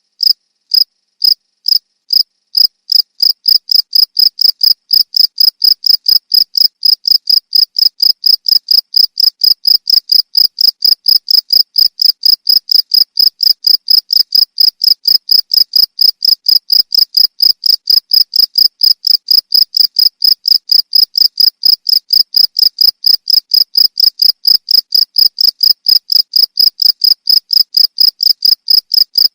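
Cricket chirping: a single high-pitched chirp repeated in an even rhythm, about three to four chirps a second, spaced more widely for the first couple of seconds before settling into a steady pace.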